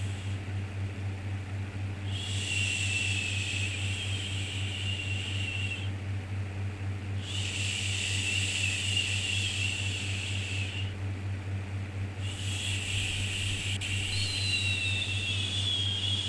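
Long drawn-out shushing, 'shhh', made to soothe a baby, repeated three times for about four seconds each with short pauses between, over a steady low hum and hiss.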